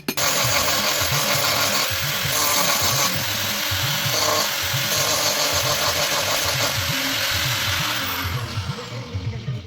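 Electric grinder grinding the steel of a forged leaf-spring blade, a steady dense rasp. Near the end it winds down with a falling whine.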